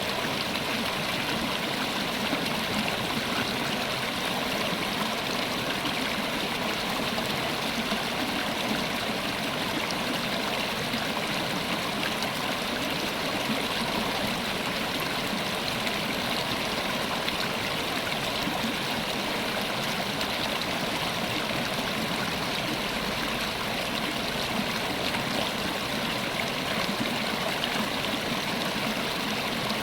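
River water flowing steadily over rocks, a constant rushing and gurgling.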